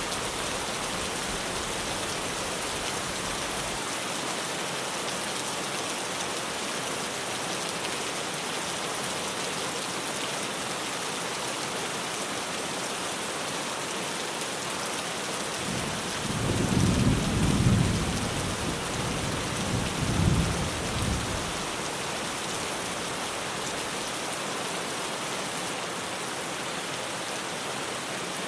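Heavy rain falling steadily on a tin roof, with a low roll of thunder a little past halfway that swells twice over about five seconds before fading back under the rain.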